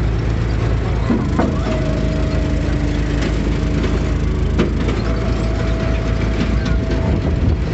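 Gas engine of a log splitter running steadily, with a few sharp knocks and a held higher tone coming and going.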